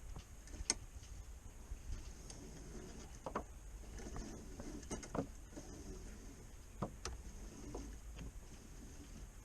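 Scattered light clicks and knocks of sailboat rigging hardware, blocks and shackles, as a new mainsheet is handled and threaded, over a low steady rumble.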